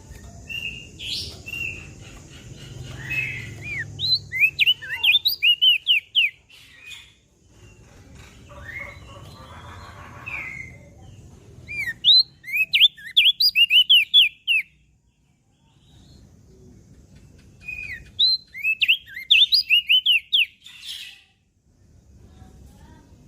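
Crested white-eye (opior jambul) singing in three bursts of rapid, sharp chirping notes, each burst about two seconds long with pauses between them. A faint low rumble runs underneath.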